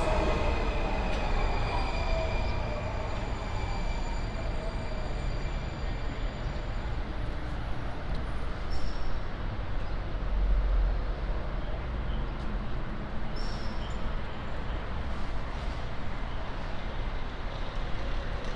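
Metro train at a station: several whining tones fall in pitch and fade away over the first few seconds, leaving a steady low rumble with a few faint clicks.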